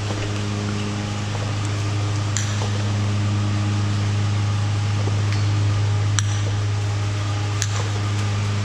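Milking shed machinery running with a steady low electric hum over a constant hiss, with a few sharp metallic clicks.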